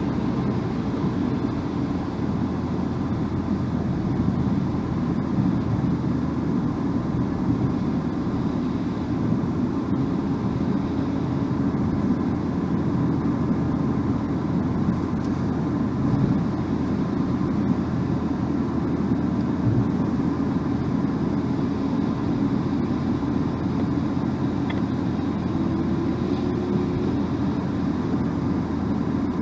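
Steady road and engine noise heard from inside a moving car's cabin: a low, even tyre rumble that does not change.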